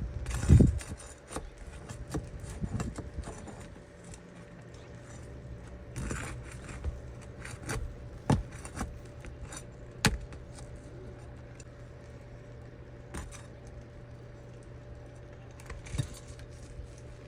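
Scattered clicks, clinks and knocks of small hard objects being handled, with a louder thump about half a second in, over a steady low hum.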